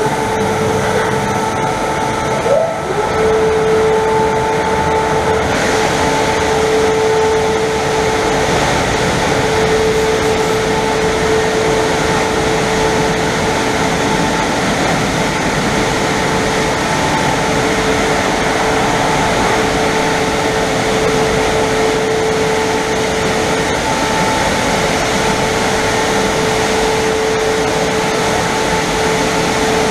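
Christ Varius rollover car wash's air-dryer blowers running steadily: a loud fan rush with a constant whine.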